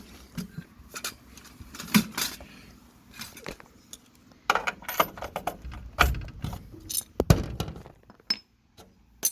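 Scattered metallic clinks and clicks of a steel concrete anchor bolt, with its nut and washer, being handled and fitted into a drilled hole, with two sharper knocks among them.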